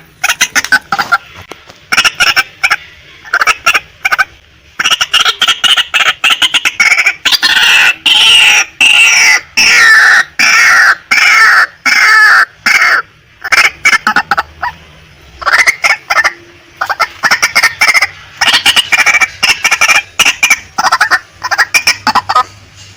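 Female white-breasted waterhen calling: loud, fast runs of harsh, repeated clucking notes, broken by short pauses between bouts.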